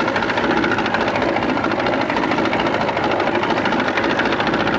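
Boat engine running steadily, with a fast, even throb.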